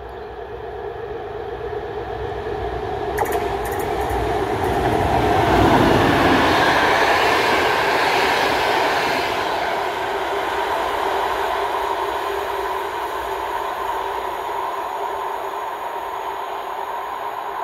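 Siemens ER20CF diesel-electric locomotive passing at speed with a passenger train, its engine and wheel noise swelling to the loudest point about six seconds in. Then the coaches' wheels rumble by over the rails, with a few sharp clicks about three seconds in, fading slowly as the train draws away.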